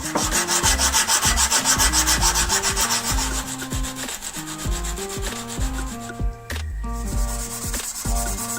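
Rapid, even back-and-forth strokes of hand sanding or rubbing, several a second, easing off about six seconds in. Melodic background music plays underneath.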